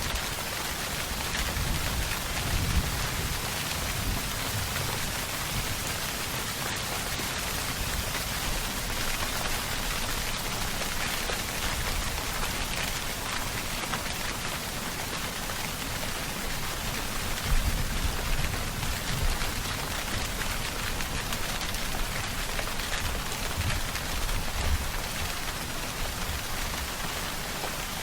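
Steady, heavy rainfall: a dense, even hiss of drops on surfaces. Low rumbling swells come in about two seconds in and again about halfway through.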